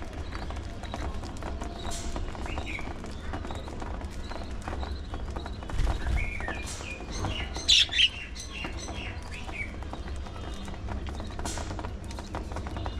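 Budgerigars chirping in short scattered calls, with a louder cluster of chirps about eight seconds in, over a steady low rumble.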